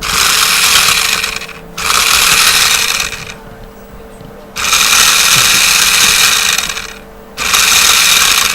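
Toy car's small electric drive motor and gearbox whirring loudly in four bursts of one and a half to two and a half seconds each, switched on and off by the microcontroller's drive program as its sensor is approached.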